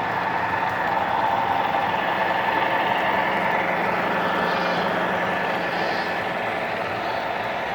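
O scale three-rail model train running: a steady rumble of wheels and motors on the track, with a low engine drone.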